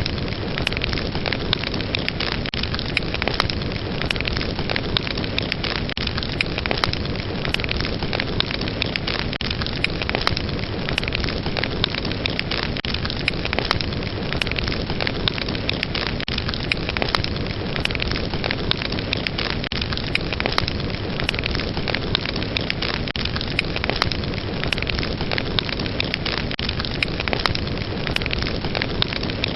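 Fire burning, with a steady hiss and frequent sharp crackles and pops.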